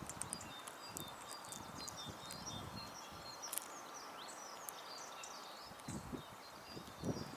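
Garden songbirds at a feeder giving scattered, faint high chirps and short twitters over a steady outdoor hiss, with a few soft low thumps near the end.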